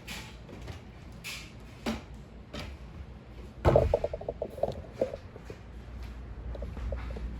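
Household floor-cleaning handling noises: scattered light knocks and swishes, then a sudden clatter about halfway through followed by a quick run of rattling clicks.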